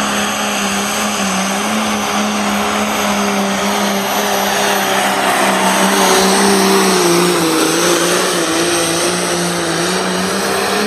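Limited Pro Stock pulling tractor's diesel engine running flat out under load during a pull, its pitch held high and nearly steady with a slight waver.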